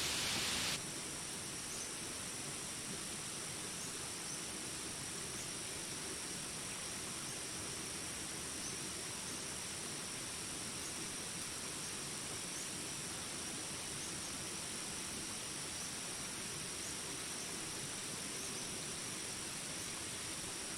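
Steady rain hiss cuts off abruptly about a second in. It leaves a jungle ambience of a continuous high-pitched insect chorus over a soft background hush.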